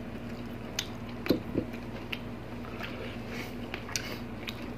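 Close-miked eating sounds: wet chewing and lip smacks with scattered soft clicks, two sharper ones a little past a second in, over a steady low hum.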